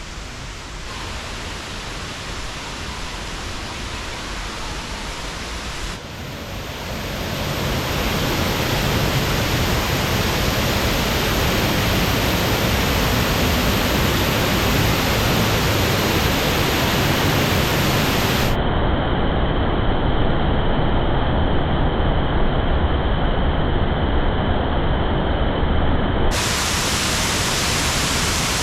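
Waterfall rushing steadily with a heavy flow of water, getting louder about six to eight seconds in.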